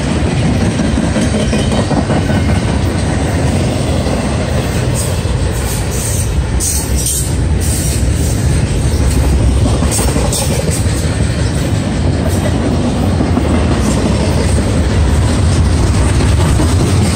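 Double-stack intermodal freight train's well cars passing close by at speed: a loud, steady rumble of steel wheels on the rails.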